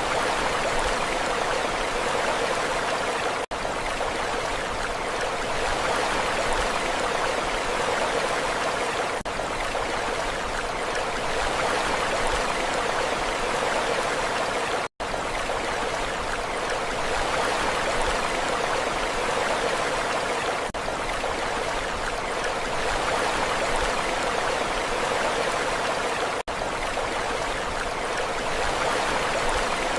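Steady rushing water, a continuous even wash with no distinct surges. It is broken by a few split-second dropouts, the clearest about halfway through.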